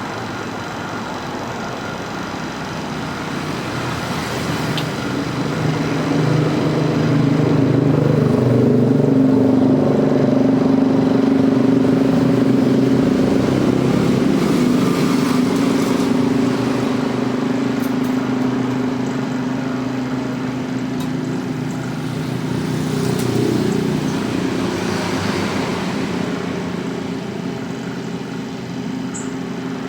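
An engine or motor running steadily with an even hum, growing louder for several seconds and then slowly fading.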